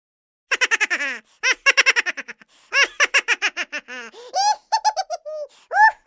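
High-pitched cartoon-character laughter: quick, repeated 'ha-ha' bursts in several bouts, starting about half a second in, with a lower, falling run of laughs near the end.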